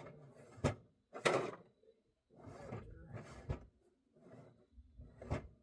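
Tools or parts being handled: irregular rustling and scraping, with sharp clanks about half a second in, a little over a second in, and near the end.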